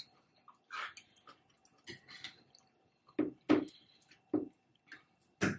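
Close-up eating sounds: wet chewing and lip smacks in irregular short bursts, the loudest few coming in the second half.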